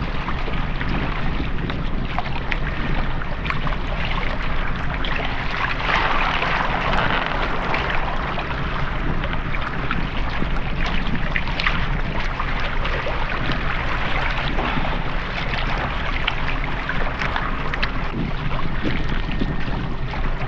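Steady wind buffeting the microphone, with water sloshing against a kayak and scattered small clicks and knocks.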